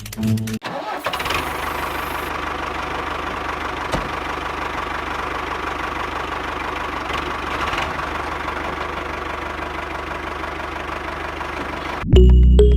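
A small engine or motor starting about half a second in and running steadily for about eleven seconds, then stopping abruptly as music returns near the end.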